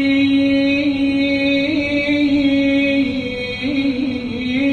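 A man's voice chanting an Arabic devotional ziyarat recitation, drawing out one long held note with small melodic turns about two-thirds of the way through and near the end.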